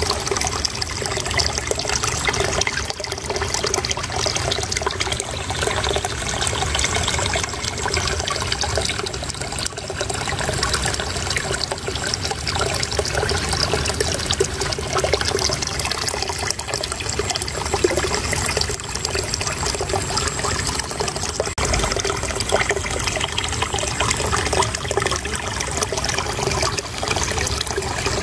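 Flowing water trickling and babbling steadily and unbroken.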